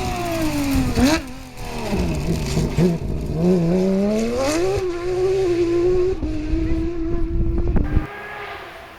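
Rally car engine at speed: the revs fall for about a second, stay low, then climb and hold steady at high revs for a few seconds before the sound drops away abruptly near the end.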